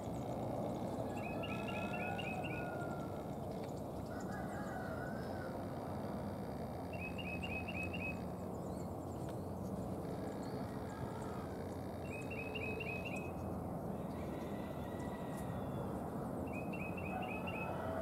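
A bird calling: a quick series of five or six short notes, repeated four times about every five seconds, with fainter wavering bird notes between, over a steady low background rumble.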